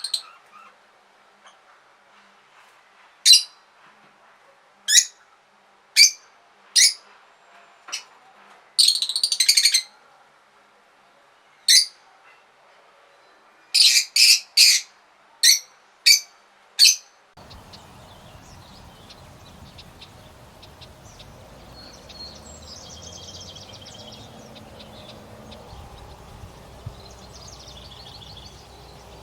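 A bird giving loud, short, sharp calls at irregular intervals, with one longer burst about nine seconds in and a quick run of three near fourteen seconds. After about seventeen seconds the calls stop and a quieter steady background hiss with a few faint high calls takes over.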